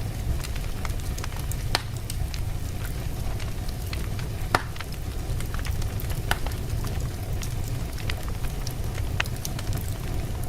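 Wood fire burning in a fireplace: logs crackling with scattered sharp pops, a louder pop about two seconds in and another about halfway through, over a steady low rumble of the flames.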